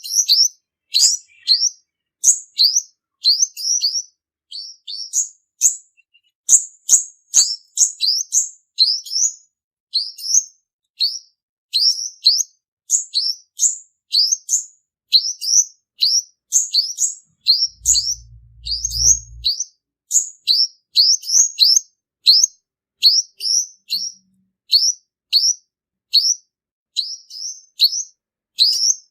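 Male olive-backed sunbird singing: quick bursts of high, thin chirps, each sliding down in pitch, several notes at a time with short gaps between, a call used as a lure to trap sunbirds. A brief low rumble is heard about two-thirds of the way through.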